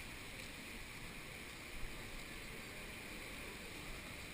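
Steady storm noise on a head-mounted GoPro Hero2: typhoon wind buffeting the microphone and rain hitting the camera.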